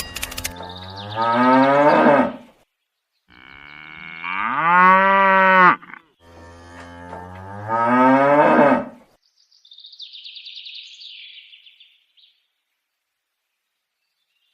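Cow mooing: three long moos in a row, each rising in pitch toward its end, followed by a fainter high-pitched chirping.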